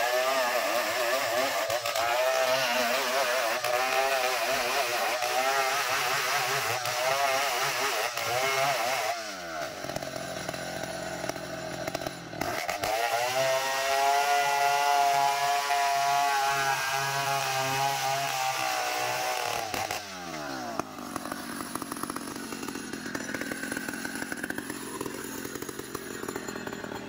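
Chainsaw cutting ironwood (ulin), the engine wavering in pitch under load in the cut. About nine seconds in the throttle drops off, then the engine revs back up and holds high for several seconds before dropping again to a lower, quieter running near the end.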